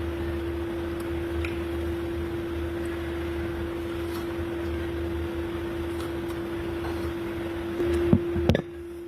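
Steady machine hum, a constant droning tone over a low rumble, of the kind a fan or air conditioner makes. Near the end come two sharp knocks, and the low rumble stops.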